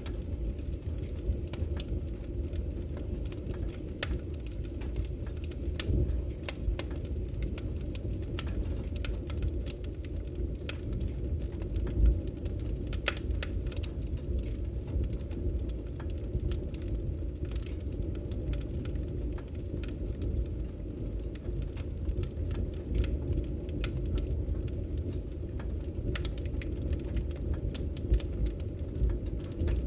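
Wood fire burning in a fireplace: a steady low rumble of flame with frequent small crackles and pops, one louder pop about twelve seconds in.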